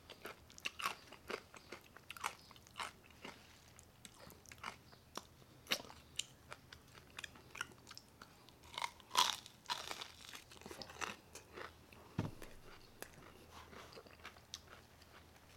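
Crunching and chewing of crisp fried pork skin (chicharrones) dipped in guacamole: a quick, irregular run of crisp crunches, loudest a little past the middle. A dull low thump comes about twelve seconds in.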